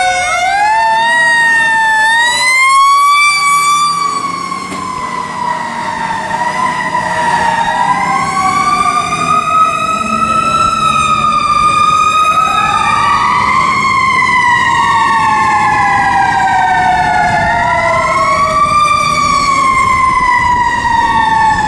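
Fire apparatus sirens wailing, two at once, each pitch slowly rising and falling over several seconds and crossing the other, over the low rumble of the trucks' diesel engines.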